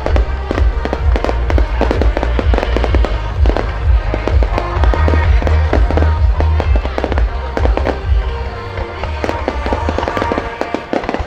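Aerial fireworks display: dense, rapid crackling reports over heavy low booming from bursting shells, many bangs a second. The booming fades near the end.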